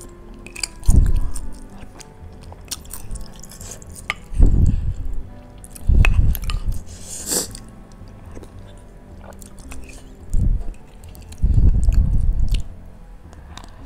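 Close-miked chewing of beef meatballs (bakso) in spicy broth: wet, chewy mouth sounds, with several louder bites about a second in, around four to six seconds, and again near the end.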